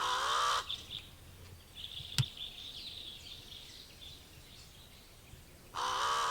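A bird giving loud, harsh calls, one at the start and one near the end, with soft high twittering from other birds in between. There is a single sharp click about two seconds in.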